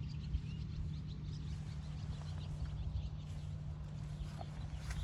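Outdoor ambience: birds chirping here and there over a steady low hum.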